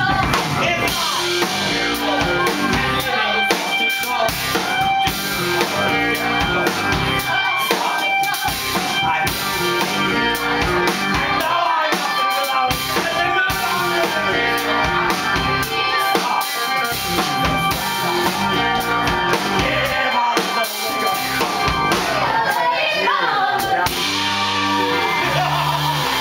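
Live band music with drum kit, playing an up-tempo number over a steady drum and bass beat.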